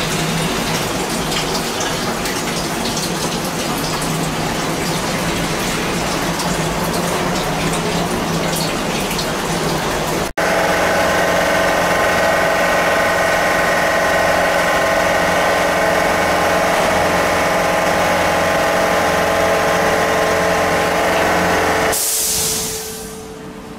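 Haas CNC milling machine cutting on its fourth axis, flood coolant splashing with a steady hiss. About ten seconds in the sound breaks off abruptly and a steady multi-tone whine of spindle and cutter takes over, ending in a short hiss near the end before it quietens.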